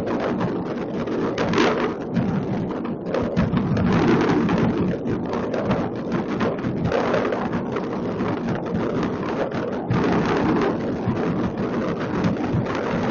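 Mass fireworks over a city: many rockets and shells bursting and crackling at once, their overlapping bangs merging into one dense, steady din with no single burst standing out.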